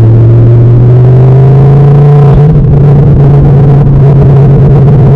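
Ford Focus ST225's turbocharged 2.5-litre five-cylinder engine heard from inside the cabin while driving: the engine note rises gently in pitch for about two seconds, shifts a little before halfway through, then runs steady.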